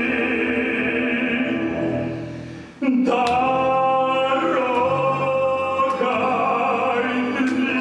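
Live orchestral music with a singer in an operatic style. A phrase fades about two and a half seconds in, then the music starts again abruptly with held, wavering sung notes.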